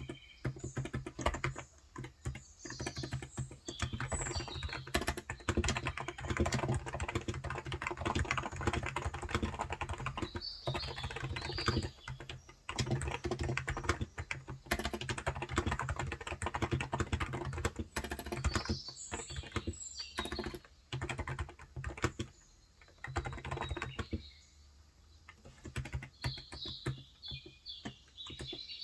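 Steady fast typing on a Cox Endeavor tenkeyless keyboard with 35 g electrostatic capacitive (Topre-style) switches, a quick run of soft key clacks that briefly thins out a few times. Birds chirp faintly in the background every several seconds.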